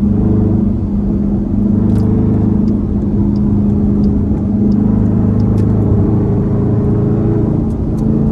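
Straight-piped Hemi V8 exhaust of a Dodge Durango SRT running on the road at a steady, even pitch, a low drone with only small rises and dips.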